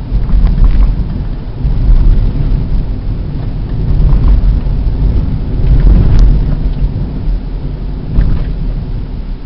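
A car driving on a plowed road: a heavy, low rumble of tyre and road noise that swells and eases every couple of seconds.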